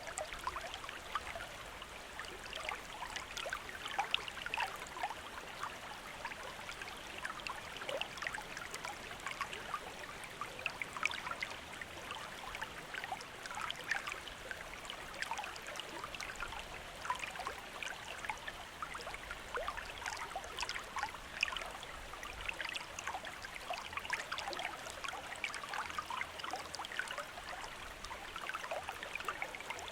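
Running water of a small river or stream: a steady splashing and babbling over rocks, with many small irregular splashes.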